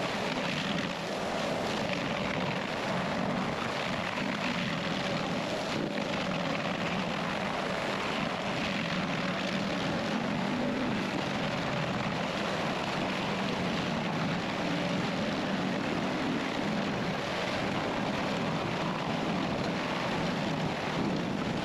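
Heavy stump-removal machine's engine running steadily, a continuous drone with no sudden changes.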